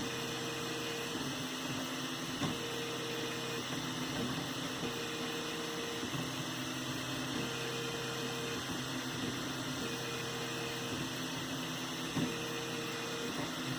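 3D printer running a print: its stepper motors sing in short tones that change pitch every second or so as the head moves, over the steady hiss of its cooling fans. Two faint clicks, one early and one near the end.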